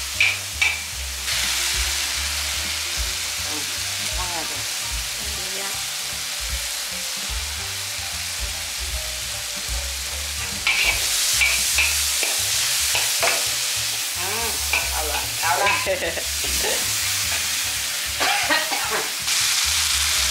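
Curry and chili powder spice paste with a little water sizzling in hot oil while a spatula stirs it, scraping and clinking against the pan. The sizzling gets louder about eleven seconds in and again near the end.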